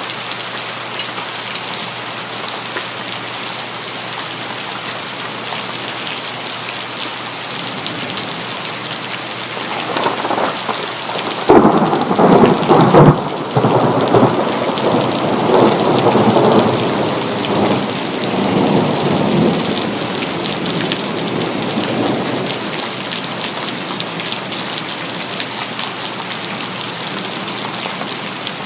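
Steady heavy rain hissing, with a thunderclap breaking in about ten seconds in. The thunder is loudest for a couple of seconds, then rolls and rumbles away over the next eight seconds or so while the rain keeps on.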